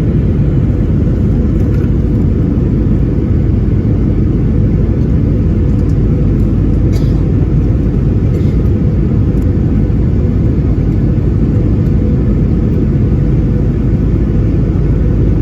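Steady, loud low rumble of an airliner in flight, heard from inside the passenger cabin.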